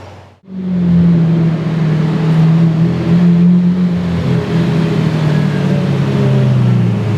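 A sports car's engine running loudly, starting suddenly about half a second in. The pitch wavers and sinks lower over the last few seconds.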